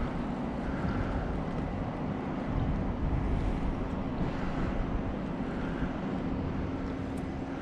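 Wind rumbling on the microphone over a steady low hum, with a soft sound recurring about every second and a half.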